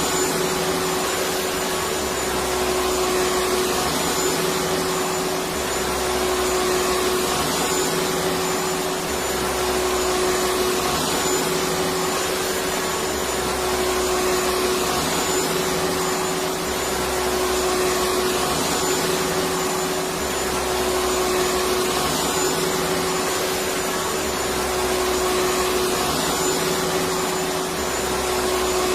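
Electric vacuum cleaner running continuously: a steady rushing of air with a constant motor whine, the level swelling gently every couple of seconds.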